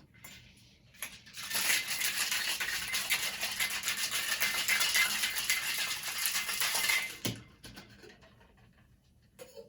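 Ice rattling inside a cocktail shaker as the drink is shaken hard. The fast, steady rattle starts about a second and a half in and stops about five and a half seconds later.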